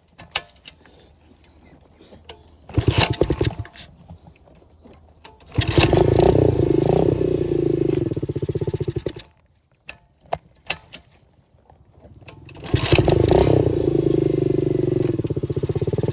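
125cc dirt bike engine being started. After a short first attempt it catches and runs for about four seconds, then cuts out abruptly. Near the end it starts again and keeps running.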